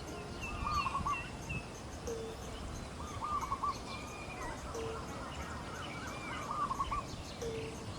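Morning birdsong. One bird repeats the same call about every two and a half seconds: a short low note followed by a quick run of looping higher notes. Other birds chirp higher up in the background.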